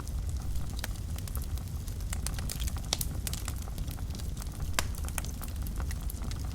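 Wood fire burning in a fireplace, with a steady low rumble of flames and frequent sharp crackles and pops at irregular intervals.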